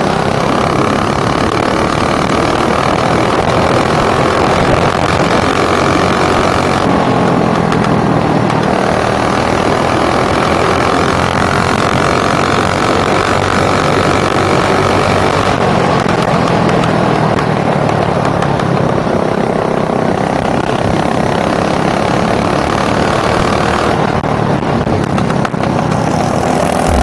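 Mini bike's small engine running continuously, its pitch changing a few times as the speed shifts.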